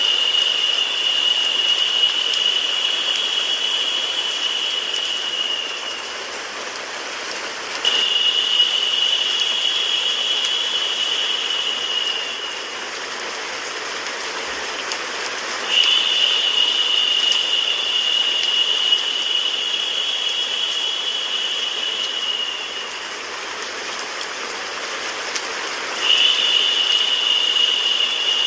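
Steady rain-like white noise. A narrower, higher hiss fades in and out on top of it every several seconds, each time for about five to seven seconds.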